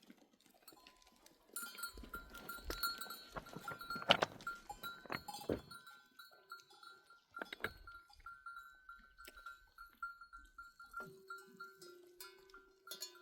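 Bells on a flock of sheep and goats clanking and ringing irregularly as the animals move, with a lower ringing tone joining in near the end.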